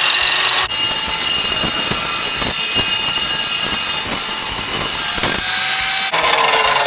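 Evolution power saw cutting through a metal bumper bracket: a loud, continuous cutting noise whose tone shifts abruptly twice, under a second in and near the end.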